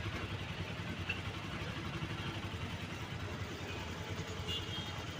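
Motorcycle engine running steadily with an even, fast low rumble.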